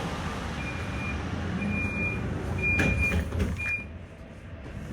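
Tram interior at a stop: the door-closing warning beeps four times, about once a second, over the low rumble of the tram, with a knock near the middle. The sound drops quieter near the end.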